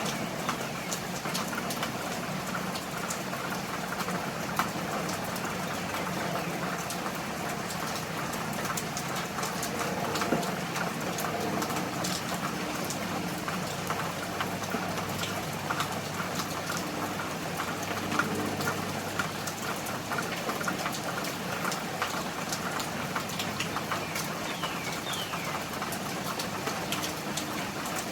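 Steady rain falling, with many separate drops ticking sharply over the hiss. A faint low hum runs underneath through the middle stretch.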